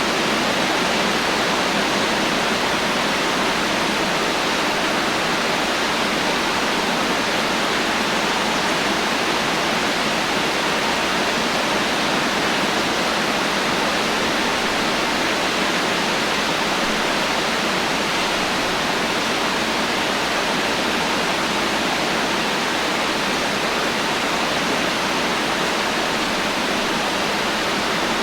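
Heavy rain falling steadily: a dense, even hiss without thunder or any separate drops standing out.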